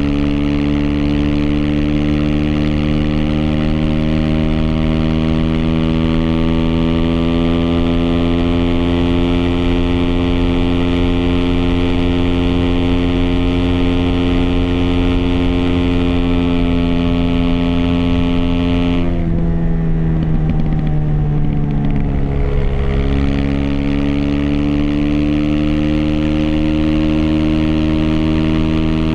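Aprilia SX 125's single-cylinder four-stroke engine through an Arrow Thunder slip-on exhaust with racing header and dB-killer, holding a steady engine speed. About two-thirds of the way in the throttle is rolled off and the revs fall for about three seconds, then the throttle is reopened and the engine settles at a steady speed again. The sound is heard through a phone in the rider's backpack.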